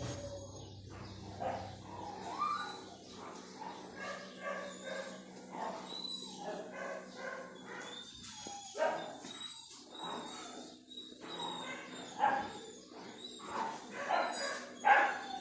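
A dog giving a string of short, pitched yips and whines, louder toward the end.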